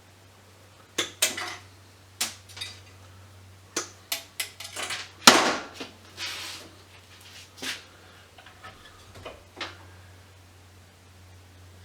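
Small metal parts and tools clinking and clattering in a string of separate knocks, the loudest about five seconds in, as scrap electronics are taken apart and sorted. A steady low hum runs underneath.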